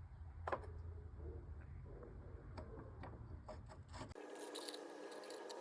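Faint clicks and rubbing from something being handled, over a low hum that cuts off about four seconds in.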